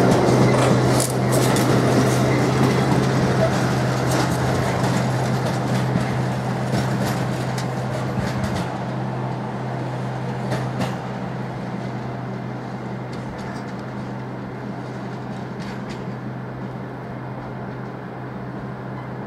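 A train running through the station and pulling away: its rolling noise and wheel clicks fade gradually over about ten seconds, over a steady low hum that holds throughout.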